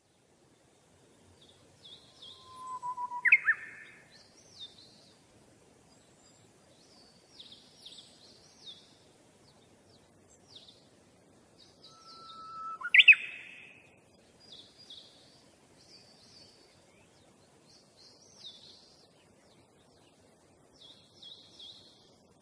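Birds chirping: a run of short, high chirps, with two louder calls about 3 and 13 seconds in, each a brief whistle that jumps into a quick rising sweep.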